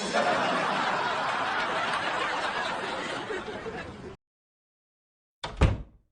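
Laughter sound effect: a group laughing together in a dense, even wash of chuckles, which cuts off abruptly about four seconds in. After a pause comes a single short, sharp thump with a heavy low end.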